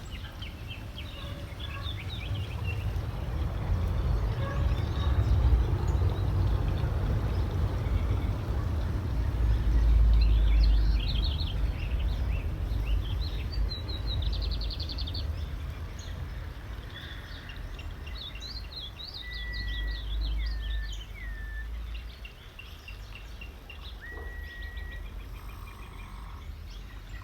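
Several birds chirping and whistling over steady outdoor background noise, with a low rumble that swells in the first half and again later on.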